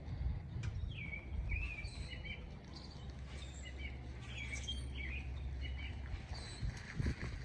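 Male grackles calling: a run of short, shrill, wavering notes that turn quickly up and down in pitch, repeated over several seconds above a low steady rumble.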